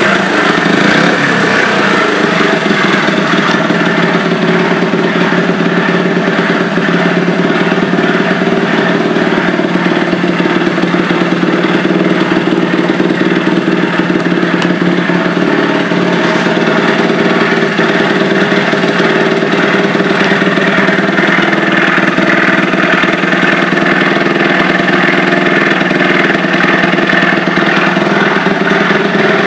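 Honda DAX trike's 88cc bored-up Monkey R four-stroke single-cylinder engine idling steadily, its revs settling down right at the start.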